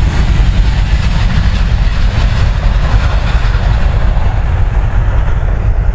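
Freight train's container wagons rolling past on steel wheels, with a rhythmic clickety-clack that fades as the last wagons draw away, over a steady low rumble.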